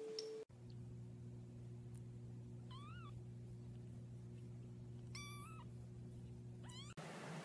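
A cat meowing three short times: one rising and falling, one held level, one sliding upward. A steady low hum runs underneath.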